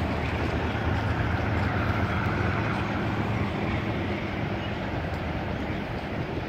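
Freight train's enclosed autorack cars rolling past, a steady rumble of wheels on rail that eases slightly in level.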